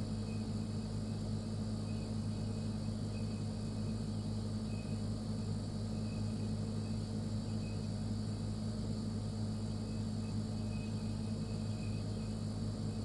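Refrigerator running steadily: a low, even compressor hum with a thin high whine above it, and faint short high chirps now and then.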